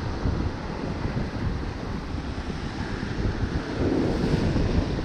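Strong wind buffeting the microphone, a continuous low rumble, with surf washing on the shore underneath.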